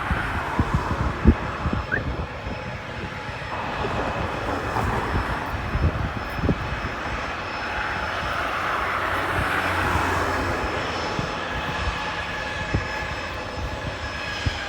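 Jet airliner's engines during departure: a steady jet noise with a faint whine that swells to a peak about two thirds of the way through, then eases off.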